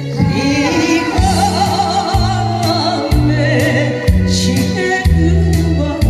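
A solo voice singing a song with a wavering vibrato over backing music with a steady drum beat and a bass line that changes note about once a second.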